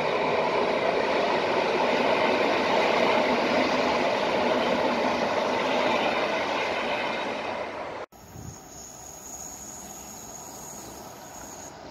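Orange electric passenger train running over a rail bridge, a steady rumble of wheels on the rails that fades slightly before breaking off about eight seconds in. After that, a much quieter background with a faint steady high whine.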